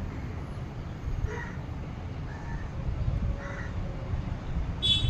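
Birds calling: two short calls about a second in and at three and a half seconds, and a higher, sharper call near the end, over a steady low rumble.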